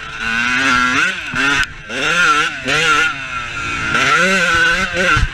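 Motorcycle engine revving, its pitch rising and dropping back several times in quick succession.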